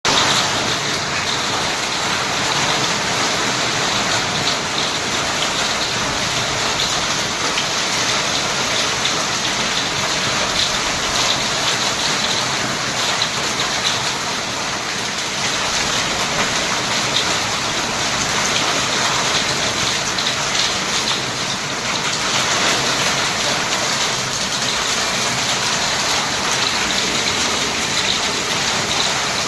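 Hail and rain falling steadily, the hailstones striking surfaces in a dense stream of small ticks.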